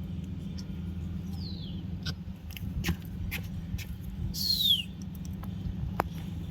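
Cockatiel giving two short chirps that slide downward in pitch, the second louder, with scattered sharp clicks of seeds being cracked in its beak. A steady low hum lies underneath.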